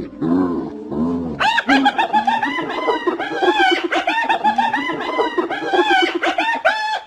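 Spotted hyena calling: a few lower calls, then about a second and a half in it breaks into a long run of rapid, high-pitched giggling calls, the hyena's 'laugh'.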